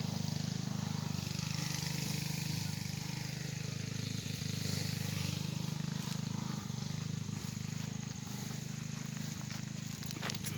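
A steady low mechanical hum, like a motor or engine running, under a faint hiss, with a few sharp clicks near the end.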